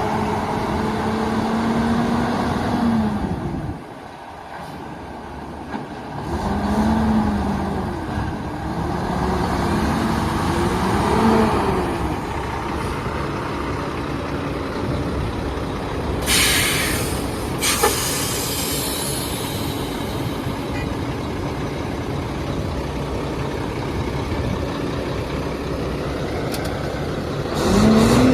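2004 Mack road tractor's diesel engine running, its pitch rising and falling as it is revved several times, with a brief drop about four seconds in. Past the middle, a burst of compressed-air hiss from the truck's air brake system lasts about a second and a half.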